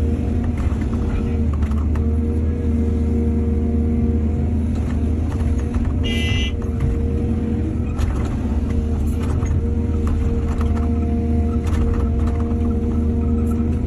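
Excavator's diesel engine running steadily, with scattered knocks and clatters and a brief high-pitched squeal about six seconds in.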